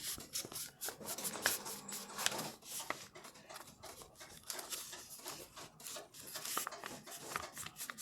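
Irregular rubbing and scraping with many light clicks and taps, like objects being handled at close range.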